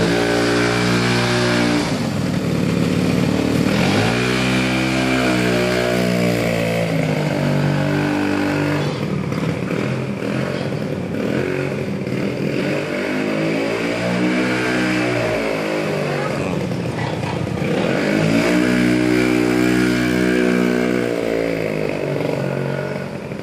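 Vespa scooter engine running and revving, its pitch rising and falling several times as the throttle is opened and eased off, fading near the end.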